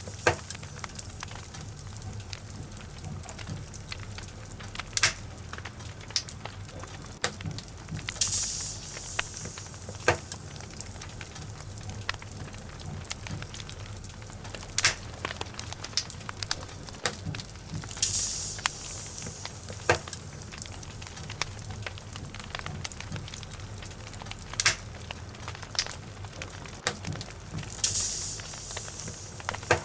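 Log fire burning in a fireplace, crackling with scattered sharp pops over a steady low rumble, with a short spell of hissing about every ten seconds.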